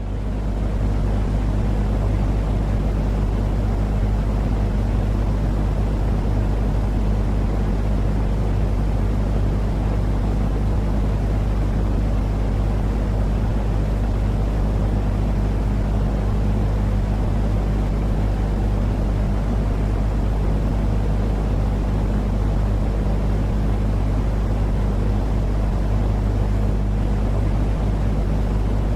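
Steady white noise for lulling a baby to sleep, a deep engine-like drone with a low hum under an even hiss. It rises in at the very start and then holds constant.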